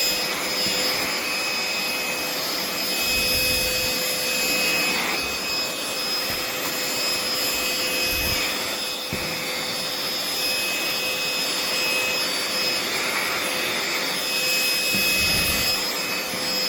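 Aspiron AS-CA038 cordless handheld vacuum running, its motor giving a steady hum with a high whine of constant pitch. A few brief low rumbles of moving air come and go.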